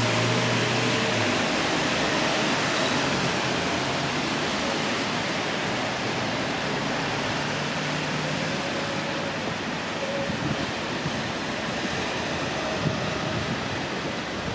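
Steady hiss of rain on a wet town street, with the low hum of passing traffic at the start and again around the middle.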